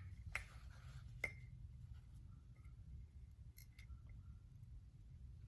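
A few faint, sharp clicks of small metal hair-clipper parts being handled during reassembly, one about a second in ringing briefly, over a low steady hum.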